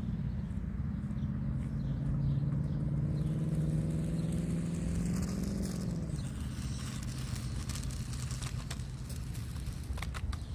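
A motor hum that rises slowly in pitch for about six seconds and then cuts off. After it comes a hiss with a few sharp clicks near the end, all over a steady low rumble like wind on the microphone.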